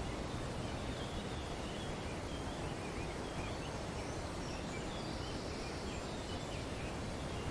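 Wind rustling through tree foliage in a steady hiss, with faint, scattered bird chirps.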